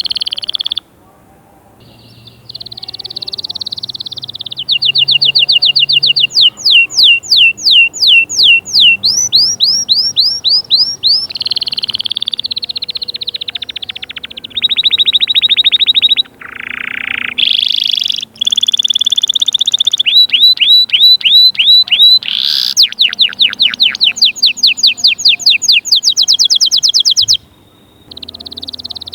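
Domestic canary singing: fast trills of rapidly repeated downsweeping notes, one trill after another, with short breaks about a second in and near the end.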